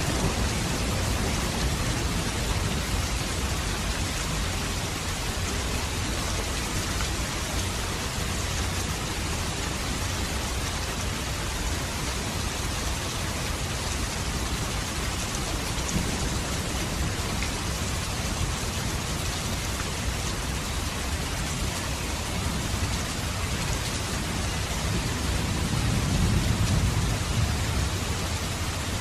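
Steady rain falling in a dense, even hiss, with a low rumble of thunder swelling and fading near the end.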